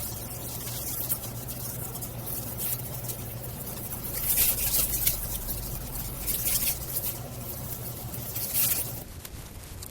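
Wood campfire crackling, with irregular sharp pops over a steady hiss. It gets a little quieter near the end.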